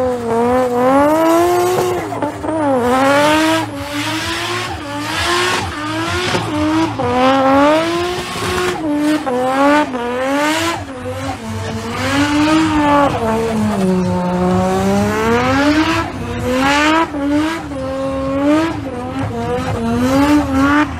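Nissan Skyline R33 GTS-t's turbocharged RB25DET straight-six revving hard, its pitch rising and falling about once or twice a second as the throttle is worked in a burnout, with a deeper dip in revs about two-thirds through. The rear tyres squeal as they spin.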